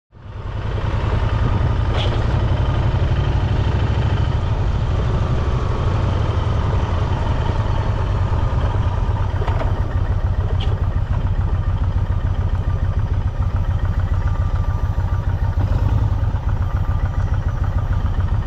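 Motorcycle engine running steadily with a low, fast-pulsing rumble, heard close to the bike; it comes in at the start, with a few faint clicks over it.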